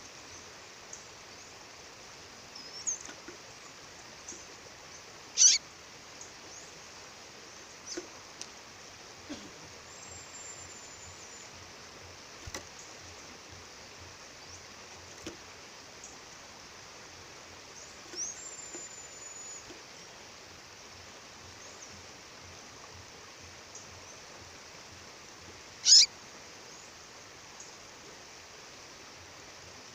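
Steady rush of a waterfall with a female bird calling over it: two loud, sharp, very short high peeps, one about five seconds in and one about four seconds before the end, and a few faint thin high whistles in between.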